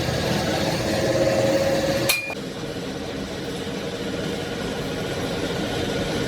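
Steady workshop machinery noise, broken about two seconds in by a single sharp metallic clink with a brief ring, after which the background is quieter.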